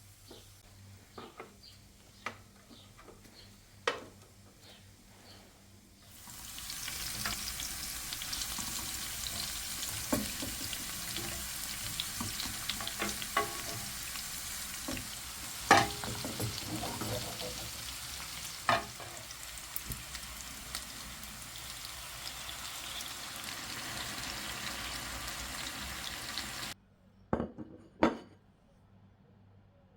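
Food frying in a pan, with a steady sizzle and scattered utensil clicks and scrapes. For the first few seconds there are only faint clicks and taps. The sizzle starts about six seconds in and cuts off abruptly near the end, followed by two knocks.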